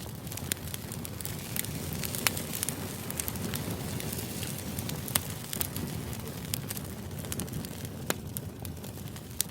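Crackling fire: a steady low rush of flames with irregular sharp pops and snaps, played as a white-noise background.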